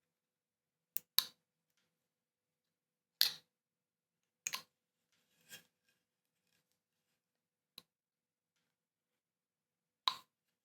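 Hand carving tool cutting into wood: about six short, sharp strokes at irregular intervals, one to three seconds apart, with quiet between them.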